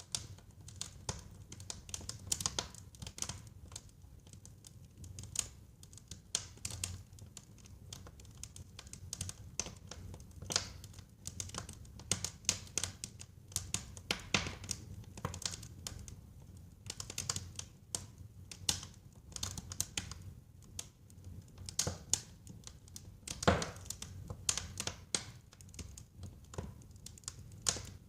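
Wood fire burning in a fireplace, crackling with irregular snaps and pops over a low rumble; one louder pop about two-thirds of the way through.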